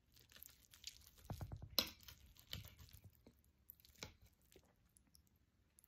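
Faint chewing of a mouthful of chile omelette, with scattered small clicks and a sharper click about two seconds in.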